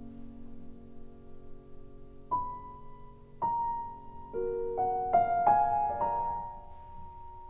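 Slow, gentle piano music: a held chord fades, single notes ring out at about two and three and a half seconds in, then a few more notes follow in quick succession and sustain.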